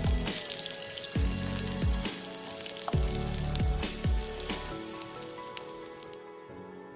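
Extra virgin olive oil sizzling and crackling around a zucchini cheese fritter shallow-frying in a pan. The sizzle cuts off suddenly near the end, leaving soft background music.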